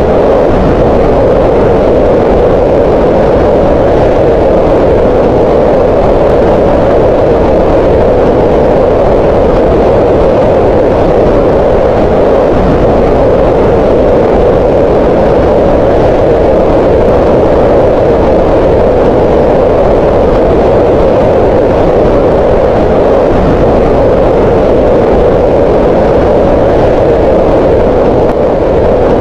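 Green noise: a loud, steady, even hiss weighted to the middle of the range, with little treble.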